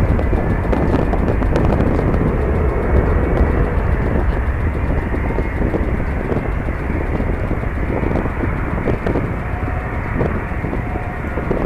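Jet airliner engines, a steady whine under a broad rush that eases slowly, mixed with heavy wind buffeting on the microphone.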